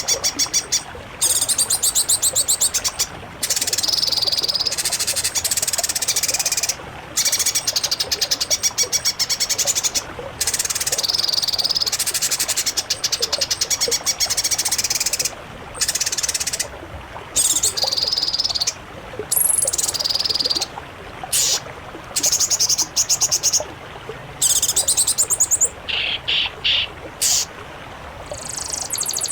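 Songbird singing in long, very fast rattling trills, high in pitch, phrase after phrase with short breaks between them. Near the end come a few shorter, lower notes.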